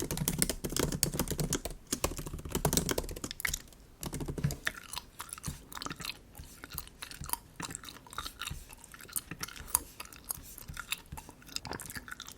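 Typing on a MacBook keyboard, rapid clicks for the first four seconds or so, giving way to bubble gum being chewed in scattered smacks.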